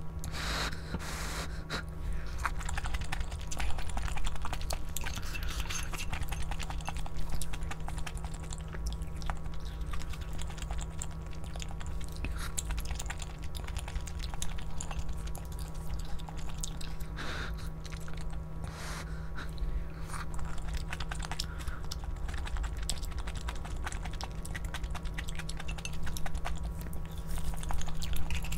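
A person chewing and eating food close to the microphone, with scattered small clicks and clinks, over a steady low hum.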